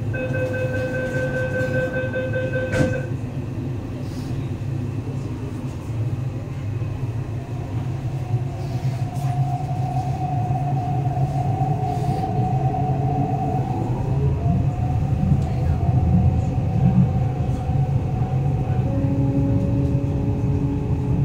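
MTR East Rail Line electric train: a steady door-closing warning tone for about three seconds, ending as the doors shut with a sharp knock, then the low rumble of the train pulling out, with a motor whine that slowly rises in pitch as it gathers speed.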